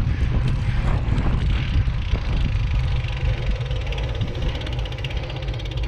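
A car driving, its engine and road noise a steady low rumble.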